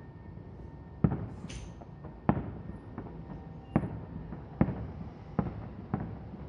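Distant aerial firework shells bursting: about six sharp booms roughly a second apart, each trailing off briefly.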